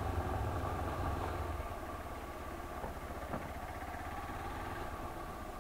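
Hero Xpulse 200 4V's single-cylinder engine running at low revs as the motorcycle rolls slowly, easing off slightly a little under two seconds in.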